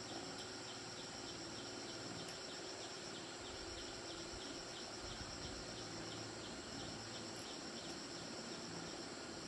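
Insects, likely crickets, chirping steadily: a continuous high trill with a pulsing chirp about three times a second.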